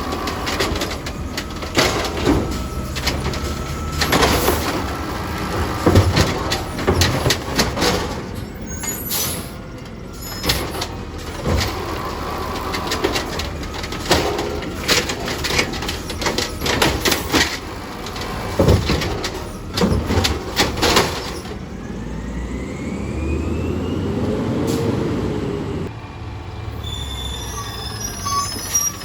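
Garbage truck working its route: engine running with a string of sharp knocks and bangs, and the hiss of air brakes. Later the knocking stops and a rising whine comes in as the engine builds.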